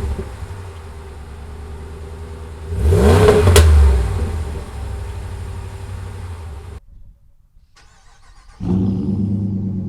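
Ram 1500 5.7 HEMI V8 exhaust idling, with one quick throttle blip about three seconds in that rises and falls back to idle. The sound drops out for a couple of seconds near the end, then the steady idle resumes.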